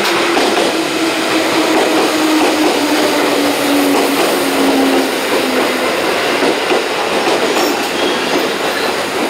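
A JR 221 series electric train pulling into the station past the platform: a steady loud rumble of the train running on the rails, with a humming tone that slowly falls in pitch over the first six seconds as it slows.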